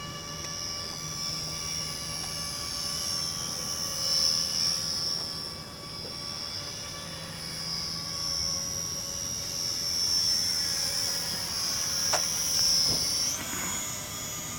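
Remote-control model airplane's motor and propeller making a high whine that wavers slightly in pitch and grows louder and softer as the plane flies. Near the end the pitch jumps up sharply as the throttle opens.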